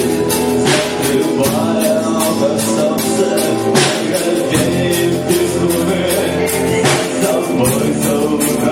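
Live rock band playing, with sustained guitar chords and a steady beat of drum and cymbal hits.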